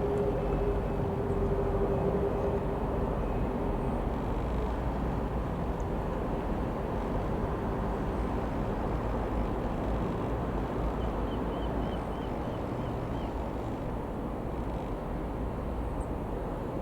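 Dassault Falcon 20 twin-engined jet passing overhead and receding: a steady jet rumble that slowly fades, with a whining tone that dies away over the first few seconds.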